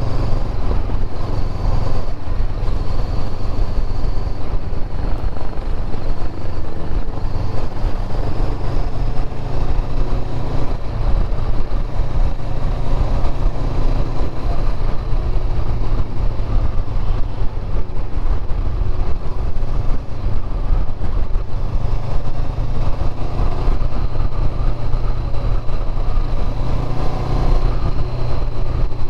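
Motorcycle engine running steadily while riding, mixed with wind and road noise on the bike-mounted camera's microphone.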